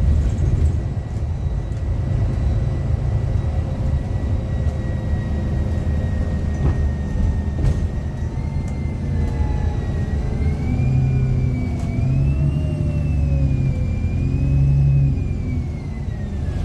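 Bus engine running on board, with a thin high whine from the on-board announcement speaker: engine electrical noise feeding through the speaker. The whine holds steady at first, then about halfway it rises and falls with the engine as the bus pulls and changes speed, and slides down near the end.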